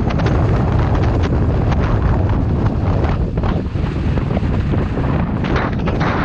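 Strong mountain wind buffeting the microphone: a loud, low rumbling noise that stays up throughout.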